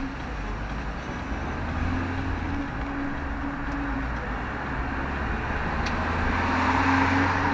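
Road vehicle running: a steady low engine hum with a faint wavering tone above it, and road noise that swells about six to seven seconds in.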